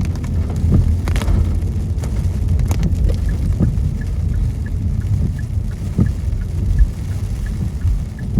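Car driving in the rain, heard from inside the cabin: steady low road and tyre rumble with scattered sharp taps of raindrops on the windshield.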